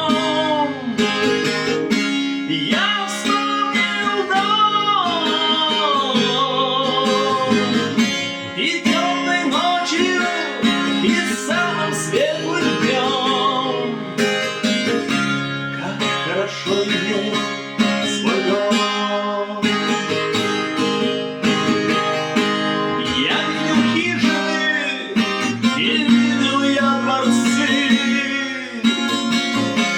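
Music: strummed acoustic guitar with a melody line carried over it.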